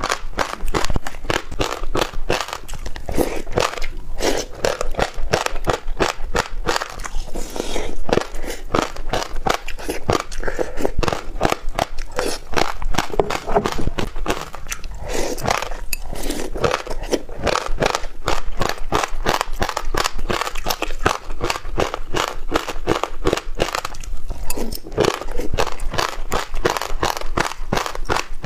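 Close-miked chewing of a mouthful of passionfruit seeds with red dragon fruit and yogurt: a rapid, continuous run of crisp crunches and crackles as the seeds break between the teeth.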